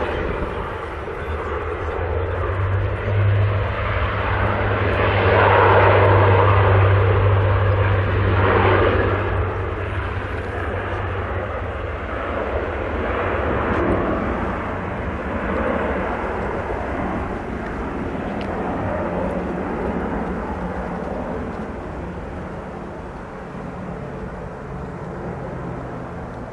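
Turboprop airliner's engines and propellers running: a steady low drone with a rushing noise above it, growing louder to a peak about six seconds in, then slowly fading as the aircraft moves away.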